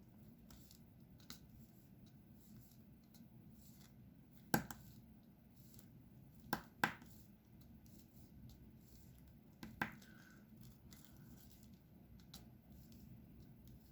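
Faint, sparse small clicks and taps from diamond-painting work at close range: four louder clicks among many quiet ticks, over a low room hum.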